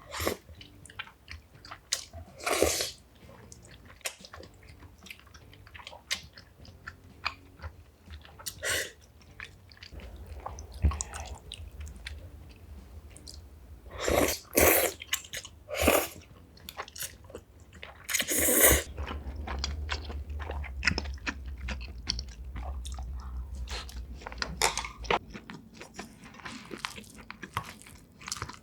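Close-miked eating sounds: a person chewing and biting food, with many small wet clicks and crackles and a few louder short bursts, the loudest about two-thirds of the way through.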